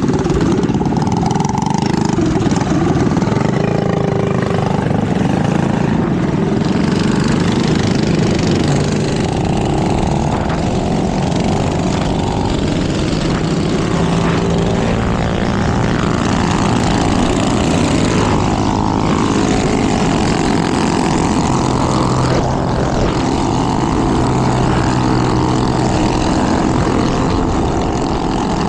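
Small minibike engines running steadily during a group ride, with the pitch shifting up and down as the throttle changes.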